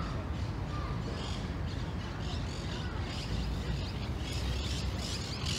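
Small birds chirping and tweeting again and again over a steady low outdoor background noise.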